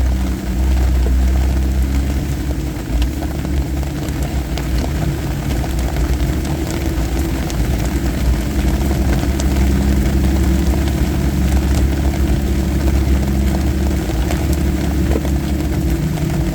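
Jeep engine running at low speed, heard as a steady low drone inside the cabin while driving down a wet gravel trail, with scattered small ticks.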